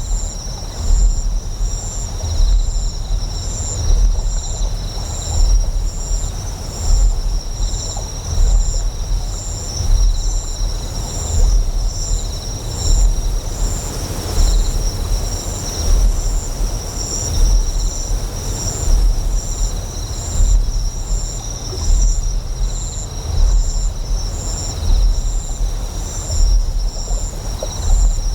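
Deep, resonant generator hum that swells in a slow rhythm, about once every second and a half, over a bed of flowing water and steady high insect chirring with a faster pulsing chirp on top.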